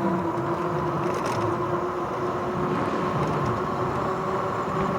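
RadRover 5 fat-tire e-bike under way: a steady whine from its geared rear hub motor over the continuous hiss of the tyres rolling on the trail.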